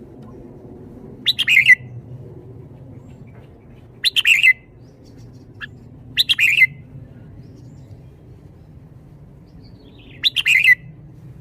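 Red-whiskered bulbul singing four short, quick song phrases, each about half a second long, spaced a few seconds apart.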